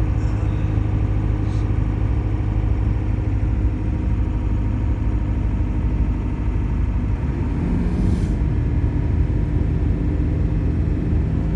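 1995 Ford 7.3L Powerstroke turbo-diesel V8 running steadily at low speed in four-wheel drive, with a constant low hum. A faint brief hiss comes about eight seconds in.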